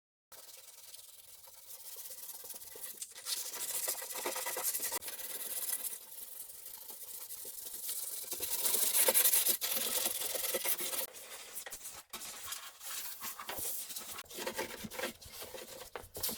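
Light sanding of a steel car body panel coated with cured, blackened rust converter: an uneven scratchy rubbing in repeated strokes that swells and fades, loudest about two-thirds of the way through.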